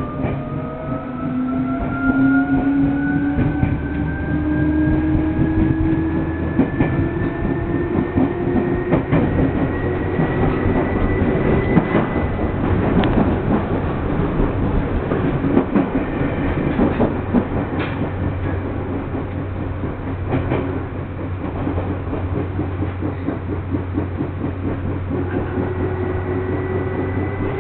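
Inside a moving electric commuter train car: the traction motors whine, rising in pitch over the first dozen seconds as the train speeds up, over a steady rumble and the clack of the wheels on the rails. A second rising whine starts near the end.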